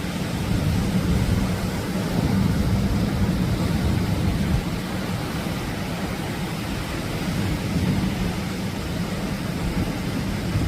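Atlantic surf: a steady low roar of waves breaking, swelling louder and easing off.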